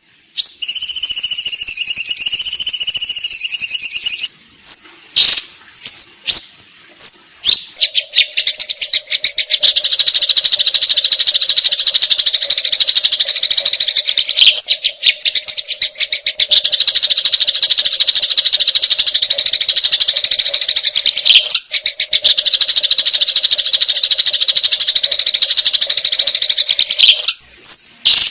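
Sparrows calling in a fighting chatter: a few seconds of high warbling song open it, then scattered chirps, then a long run of very fast continuous chattering with a steady low hum beneath, broken twice by brief gaps.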